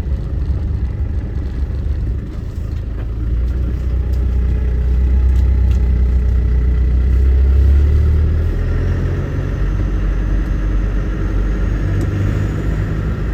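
Land Rover Defender's 300Tdi four-cylinder turbodiesel running under way, with road rumble; the rumble builds to its loudest about eight seconds in, then eases off.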